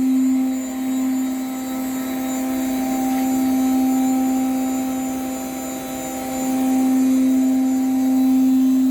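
CNC wood router spindle running at a steady, high speed with an even whine, over the rush of noise from the machine. The loudness dips a little about halfway through and swells again near the end.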